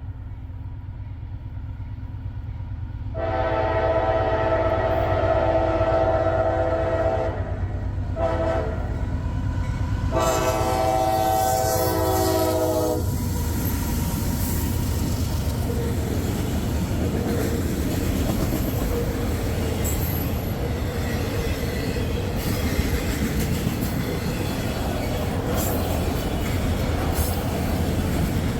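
Freight train led by diesel locomotives approaching and passing. The locomotive's multi-tone air horn sounds a long blast, a short one, and another long blast. Then a steady rumble and rattle of auto rack cars rolling by on the rails.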